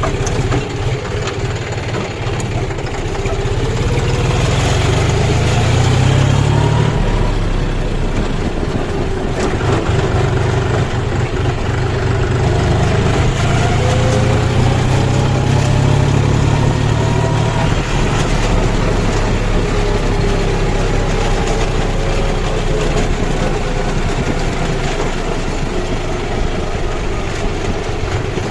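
Kubota combine harvester's diesel engine running steadily under load, its pitch rising and easing back twice as the engine speeds up.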